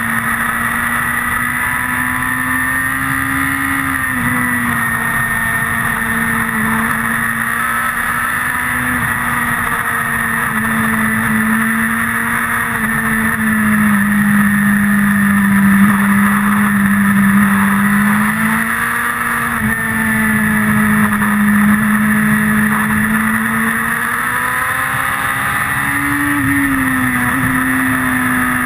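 Motorcycle engine running hard at high revs under a steady rush of wind. The engine's pitch holds fairly even, stepping and sweeping up and down a few times with gear changes and throttle through the corners.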